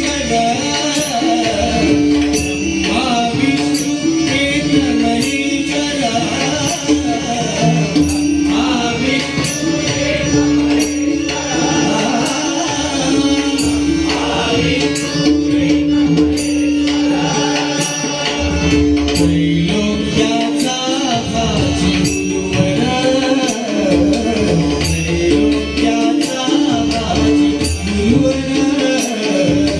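Marathi abhang (devotional song) with a singer's voice over a steady held drone note, hand drums and jingling hand cymbals keeping a regular beat.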